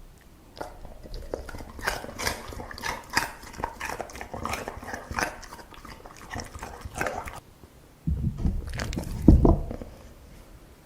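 A dog chewing and crunching food, a dense run of crisp crunches for several seconds. Near the end comes a louder low rumble with a thump.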